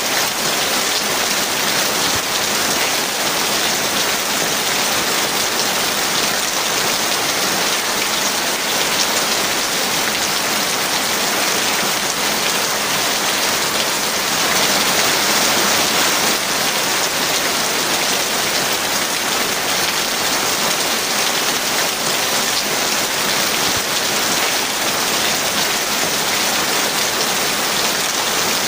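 Heavy rain falling steadily, a dense even hiss of many drops on surfaces, swelling slightly about halfway through.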